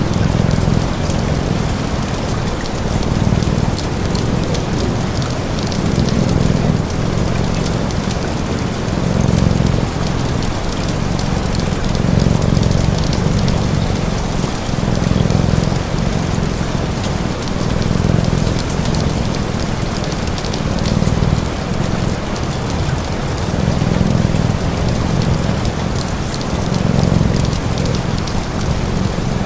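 Steady rain pattering, layered with a deep cat purr that swells and fades about every two seconds.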